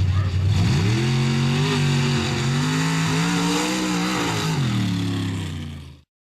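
Mud race truck engine revving up about half a second in and held at high revs with slight wavering, then dropping off near the end, over a loud hiss. The sound cuts off suddenly.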